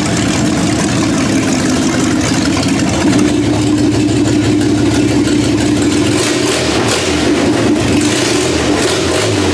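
1960 GMC 702 V12 gasoline engine running loudly at a fairly steady speed.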